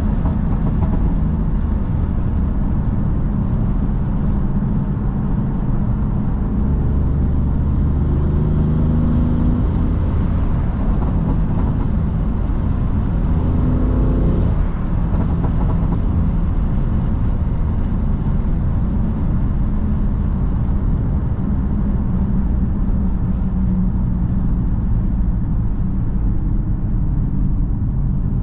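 BMW M3 F80's 3.0-litre twin-turbo inline-six engine running while driving, with revs rising twice, at about 8 seconds and again around 13 to 14 seconds.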